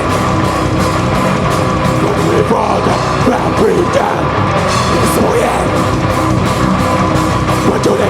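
Live heavy rock band playing: distorted electric guitars and drums, with singing.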